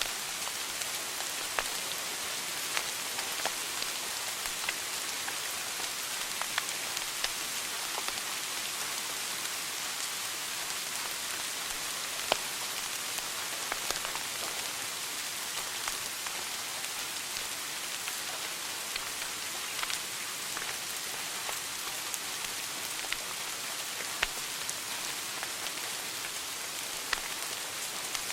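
Wood fire burning in a fireplace, crackling: a steady hiss with frequent small pops and a few sharper, louder snaps scattered throughout.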